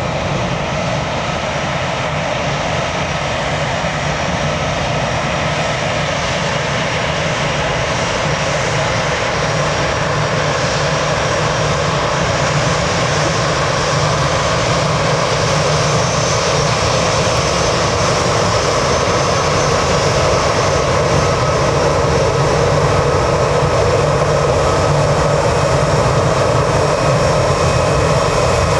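Jet airliner engines running steadily, growing slowly louder.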